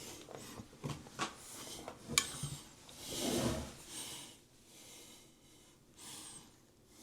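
Faint clicks and taps of objects being handled, then a short breathy hiss about three seconds in.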